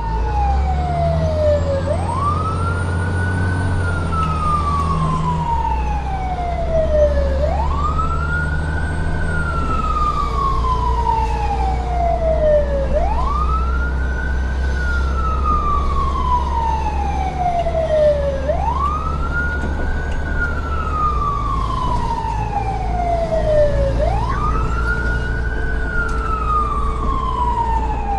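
A siren wailing: each cycle rises quickly, then falls slowly, repeating about every five and a half seconds over a steady low hum.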